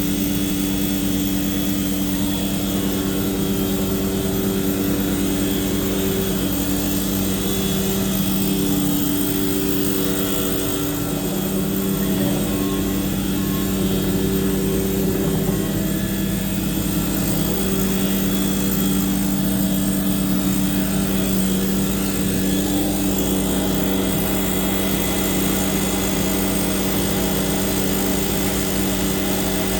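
Vacuum tanker truck's pump and engine running steadily, drawing up thick grease and oil that is very hard to suck.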